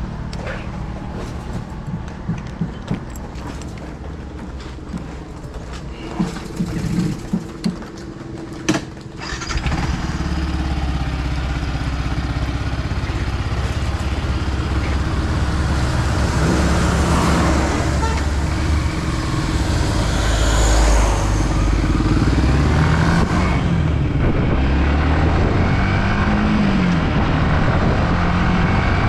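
Yamaha WR155R motorcycle's single-cylinder engine running while being ridden, its pitch rising and falling with the throttle. A cluster of sharp clicks comes about six to nine seconds in, after which the engine and road noise get louder.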